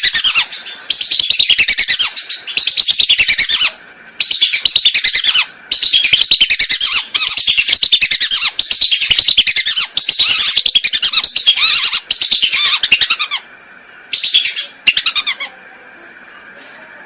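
Whistling duck calls, a loud lure recording: rapid strings of high whistled notes, each sliding downward, in bouts of about a second with short gaps. After a longer pause comes one short bout, and the calling stops a couple of seconds before the end.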